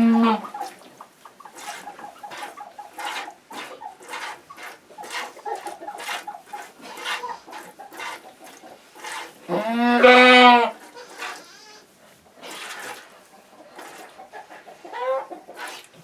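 A Nubian goat being hand-milked: streams of milk squirt into the pail in a steady rhythm of about two a second, which comes slowly because the doe is hard to milk. About ten seconds in, one loud, drawn-out livestock call lasts about a second.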